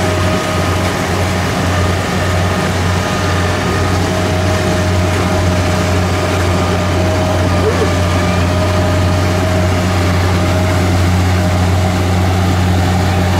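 Kubota DC70 rice combine harvester running steadily, its diesel engine giving a loud, even low drone with a fainter steady whine above it.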